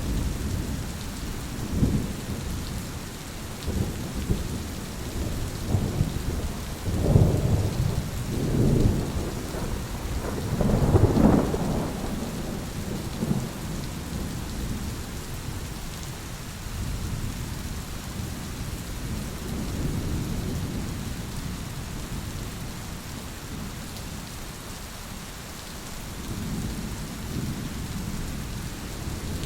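Thunderstorm: steady rain falling, with rolling thunder that builds in several low rumbles from about six to twelve seconds in, then fainter rumbles later.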